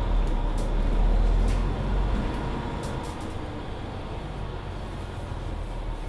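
A 2021 Mercedes-Benz Citaro C2 hybrid city bus driving, heard from inside the cabin: a deep engine and drivetrain rumble that swells in the first two seconds and then eases, with a few light rattles.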